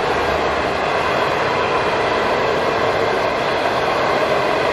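Passenger train coaches rolling past at speed: a steady rush of wheel-on-rail noise.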